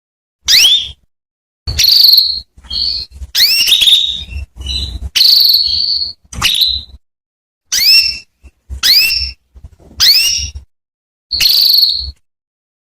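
Female canary calling: about a dozen short, high notes, most of them quick rising sweeps and a few held on one steady pitch, with silent gaps between. It is the call a hen canary gives to a male.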